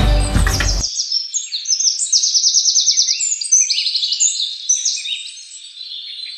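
Several birds singing and chirping at once: fast trills, short chirps and whistles overlapping. Background music cuts off about a second in, before the birdsong.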